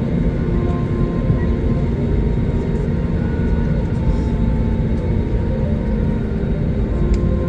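Airliner cabin noise: the steady, loud low rumble of the jet engines and airframe, heard from inside the passenger cabin.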